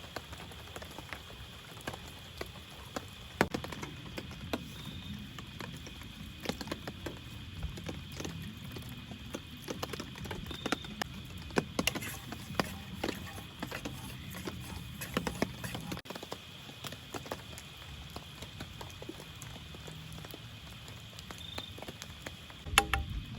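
Raindrops dripping irregularly onto a tent or tarp, scattered taps and ticks with a few louder ones, over a steady high hum.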